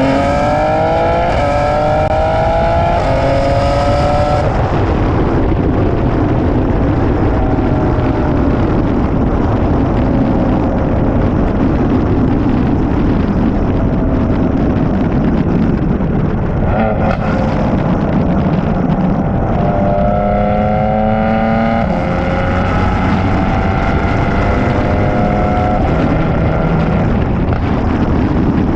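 BMW M3 Competition (G80) twin-turbo inline-six with catless downpipes and a free-flowing exhaust, pulling hard with rising revs for the first few seconds. It then drops off to lighter throttle, the pitch slowly sagging. In the second half it builds revs again and holds them fairly steady.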